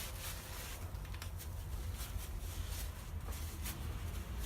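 Faint rubbing and light clicks from small greasy parts being handled, over a steady low hum.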